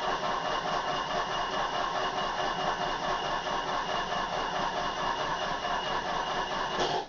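Old Opel's starter motor cranking the engine in a steady rhythmic chug, the car hard to start after standing unused for a long time. It stops abruptly near the end, and the engine does not catch.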